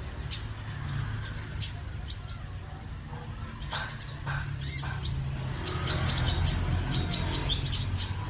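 A sunbird (kolibri ninja) singing a rapid, busy song of short high chirps and twitters, with a steady low hum underneath.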